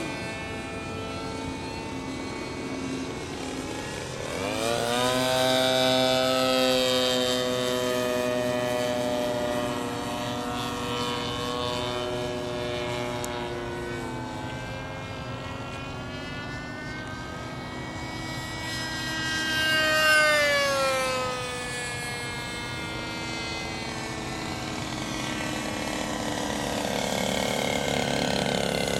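Radio-controlled model airplane in flight, its motor and propeller making a steady buzz. The buzz rises in pitch and grows louder about five seconds in, then swells again and falls in pitch about twenty seconds in as the plane passes by.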